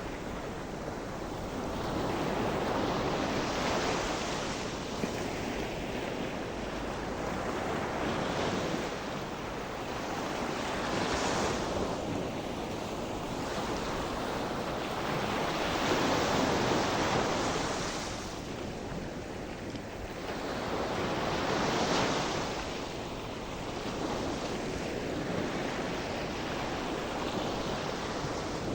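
Sea waves breaking and washing on a shore, the surf swelling and easing every few seconds, with some wind on the microphone.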